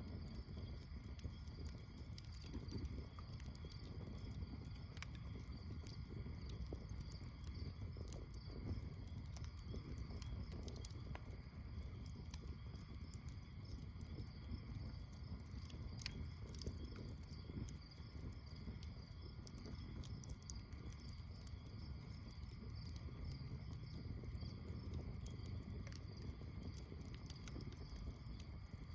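Campfire crackling with scattered sharp pops over a low rush, with a steady high chorus of insects chirping behind it.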